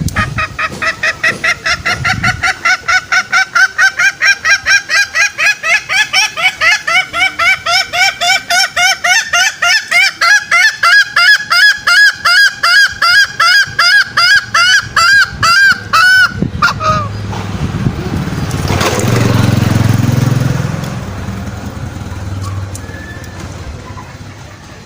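Green junglefowl lure call: a long rapid run of honking notes, about four a second, rising slightly in pitch, which stops abruptly about sixteen seconds in. A low rumbling noise follows.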